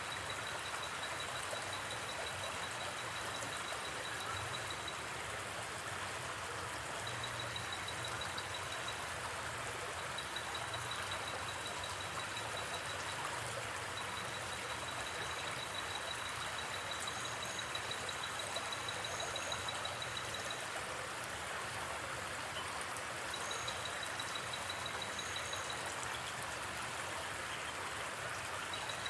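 River water flowing steadily, overlaid by a high, rapidly pulsing trill of night insects that comes and goes in stretches, with a few short, higher chirps in the second half.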